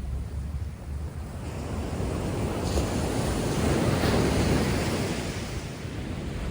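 Rough storm-swell surf: a wave builds from about a second and a half in, breaks and washes in loudest around the middle, then draws back. Wind rumbles on the microphone underneath.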